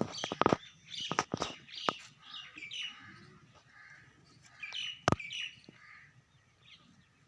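Small birds chirping over and over in short, stepped calls. Several sharp knocks come in the first two seconds and one more about five seconds in.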